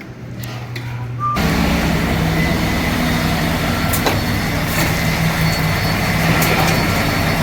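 Mack truck's diesel engine running steadily, cutting in abruptly a little over a second in after a quieter low hum.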